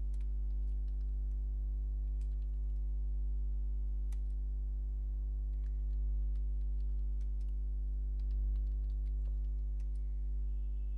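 Scattered computer keyboard keystrokes, a password being typed at a terminal, over a steady low electrical hum that is the loudest sound throughout.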